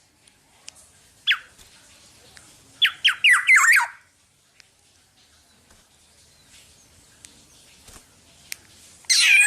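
Black-naped oriole calling: a single downward-sliding note about a second in, a quick run of sliding whistled notes around three seconds in, and a loud harsh squawk near the end.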